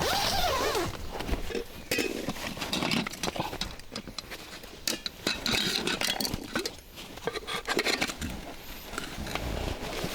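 Irregular rustling and knocking with light clinks, as of camp gear being handled.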